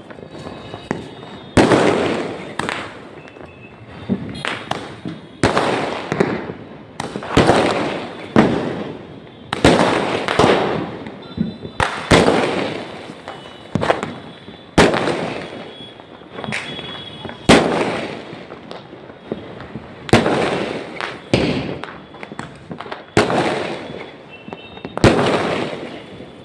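Fireworks going off in quick succession: a sharp bang every second or two, each trailing off over about a second.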